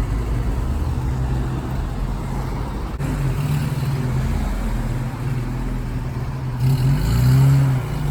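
Car engines running as cars drive off at low speed, a steady low engine hum, with one engine getting louder and rising in pitch as it accelerates about seven seconds in.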